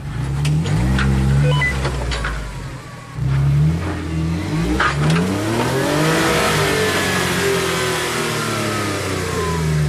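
Jeep JK Wrangler engine revving in repeated surges under load while crawling up rocks, with one longer rise about six seconds in that slowly eases off. There are a few sharp knocks among the revs.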